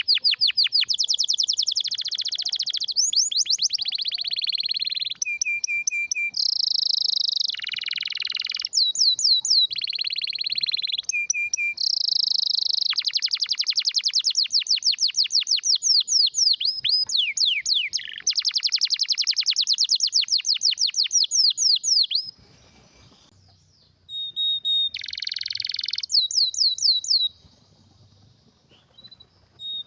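Domestic canary singing a strong song of long, fast trills of rapidly repeated high notes, phrase after phrase with short gaps, breaking off twice for a second or two in the last third.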